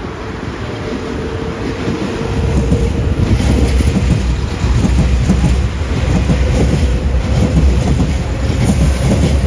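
Nankai 6000 series stainless-steel electric train, an express of three coupled sets, running through the station. Its rumble grows loud about two seconds in, with the steady clatter of wheels over the rail joints.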